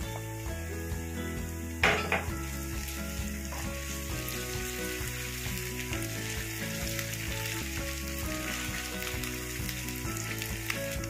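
Sliced onions and chopped garlic frying in hot oil in a pan, sizzling steadily while a wooden spatula stirs them, with one louder scrape against the pan about two seconds in. Background music plays faintly underneath.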